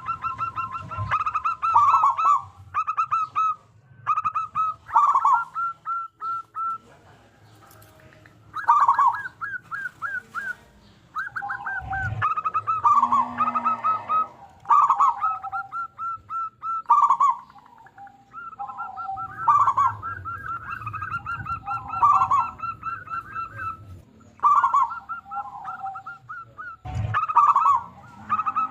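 Zebra dove (perkutut) cooing: phrase after phrase of rapid staccato coos, some notes falling at the end, with short pauses between phrases.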